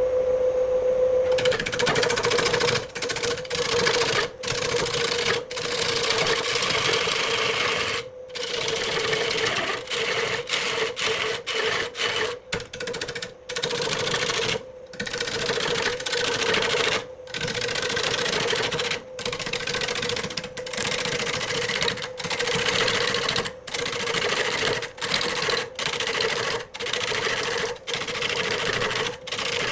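Wood lathe running with a steady hum while a turning tool cuts into the spinning wood. The cutting hiss sets in about a second and a half in and comes in short passes, broken by many brief gaps.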